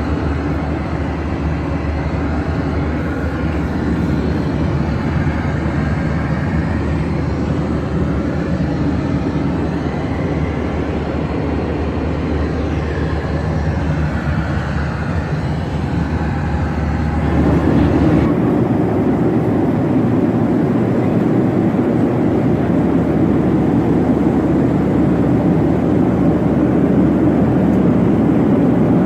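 Inside the cabin of a Boeing 737-800 in flight: the steady roar of its CFM56 jet engines and the airflow past the fuselage. About 17 seconds in, the sound abruptly turns deeper and a little louder.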